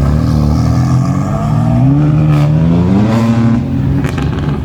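Car engine accelerating hard: its pitch climbs steadily, drops about two and a half seconds in at a gear change, then climbs again before levelling off.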